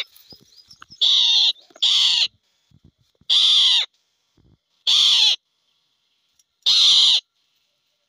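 Indian roller giving five loud, harsh calls, each about half a second long, spaced roughly a second or so apart.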